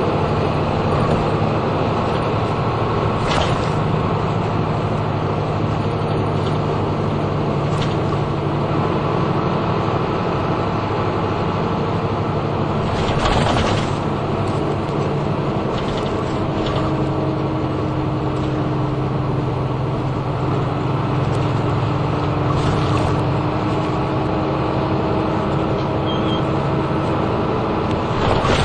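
Interior running sound of a route bus on the move: a steady engine drone with road and tyre noise, whose pitch shifts a little as the engine speed changes. A few short rattles or knocks stand out, the loudest a little over halfway through.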